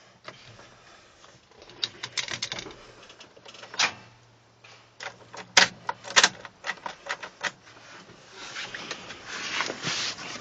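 Irregular clicks and knocks, with a faint steady hum underneath, as someone tries to start a 1992 Dodge Cummins diesel pickup. The engine does not catch.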